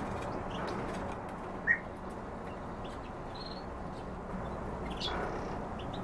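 Cage birds chirping: one loud, short chirp a little under two seconds in and a few fainter high notes later, over steady background noise.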